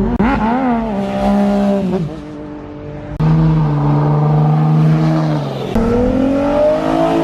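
Car engine revving: the pitch rises and falls for the first two seconds, then holds steady. About three seconds in it comes in suddenly louder at a steady note, and near the end the pitch climbs steadily as the car accelerates.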